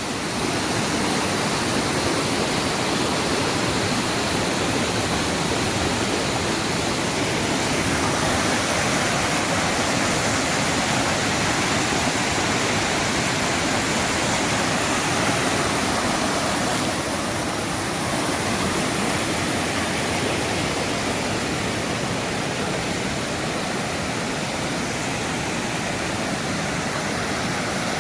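Waterfall: a steady, even rush of falling water, with a slight change in tone about two-thirds of the way through.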